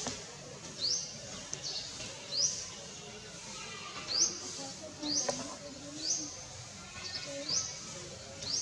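A bird calling over and over, each call a short, quickly rising high chirp, about once a second.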